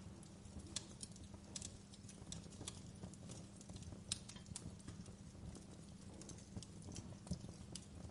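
Wood fire in a fireplace crackling: irregular sharp pops and snaps, several a second, over a low steady rumble of the flames.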